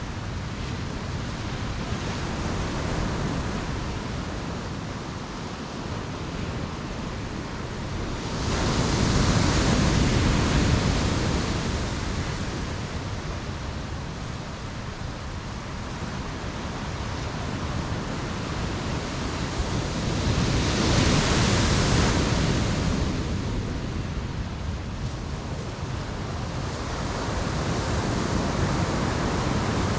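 Ocean waves washing onto a beach in a steady roar of surf, with two louder breakers swelling up and fading, about a third of the way in and again about two-thirds through.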